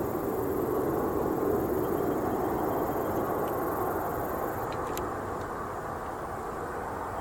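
Boeing 787-9 jet airliner passing, its engines a steady rushing noise that swells for the first second or two and then slowly fades.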